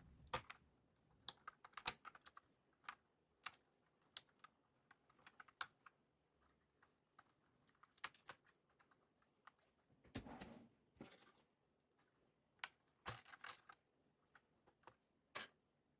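Faint keystrokes on a mechanical keyboard with Akko CS Lavender Purple tactile switches and PBT pudding keycaps. The presses come singly at an irregular pace, with a couple of quicker bursts of several keys.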